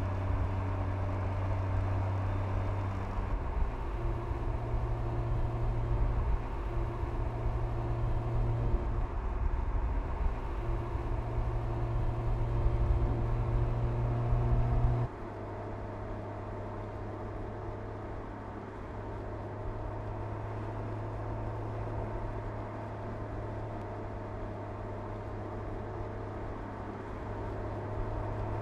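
Mercedes-AMG CLS 53's turbocharged 3.0-litre inline-six running at a steady cruise, a low, even engine drone over tyre and road noise. The sound shifts abruptly a few seconds in and then drops clearly quieter about halfway through.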